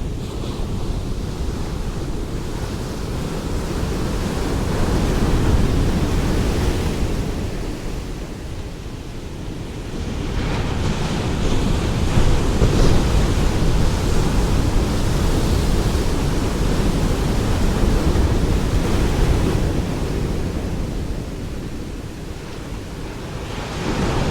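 Ocean waves breaking and washing on a shore in a steady rumble that swells and ebbs every several seconds, with a deep low end and a hiss on each surge.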